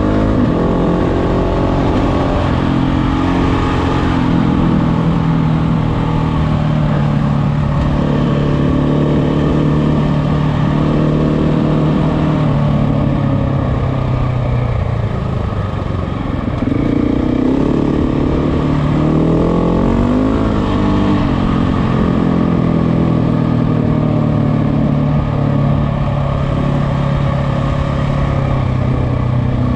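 KTM motorcycle engine running under way, holding steady revs that dip about halfway through and then climb again, over a steady low rush.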